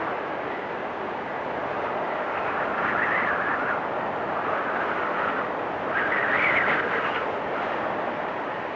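Blizzard wind blowing steadily, swelling in gusts about three seconds in and again around six seconds in.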